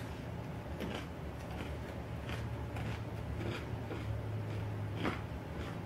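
Chewing a mouthful of crispy fries with cheese sauce: a few soft crunches and mouth clicks spread through, over a low steady hum.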